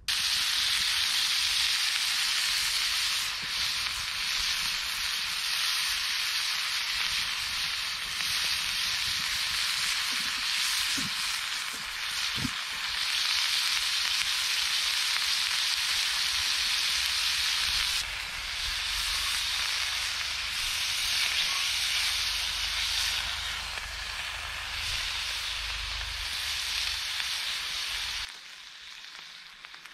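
Beef burger patties frying in a hot cast-iron skillet over a wood fire: a loud, steady sizzle that cuts off abruptly near the end.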